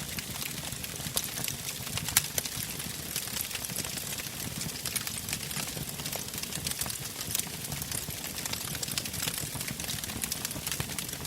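Wood fire crackling in a fireplace: many irregular sharp pops and snaps over a low, steady rumble of flame, with one louder pop about two seconds in.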